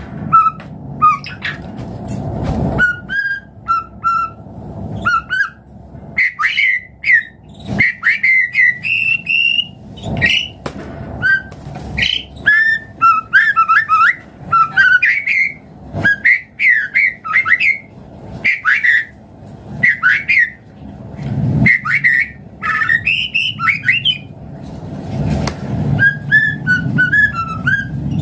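White-rumped shama (murai batu) singing at length: a continuous run of varied short whistled phrases, rising and falling notes and quick note runs, with only brief pauses.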